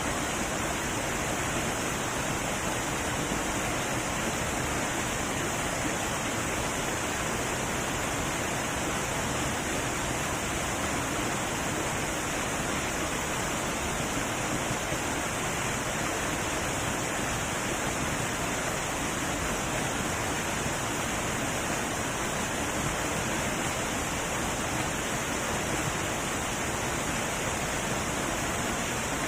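Heavy waterfall rushing: a steady, even roar of falling water with no breaks or changes.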